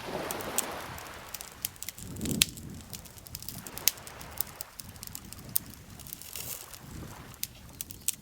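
Wood campfire crackling, with frequent sharp pops and snaps over a soft rushing background that swells and fades. The loudest pop comes about two and a half seconds in.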